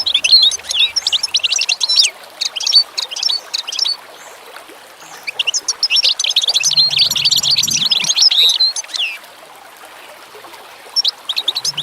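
Small birds chirping rapidly and densely in bursts of two to three seconds, separated by short pauses.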